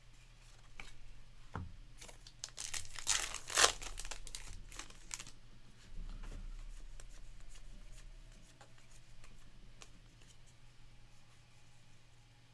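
Trading card pack wrapper from a 2024 Topps Heritage Baseball box torn open and crinkled, a run of crackling tearing about two seconds in that lasts roughly three seconds and is loudest near its middle, followed by scattered light clicks.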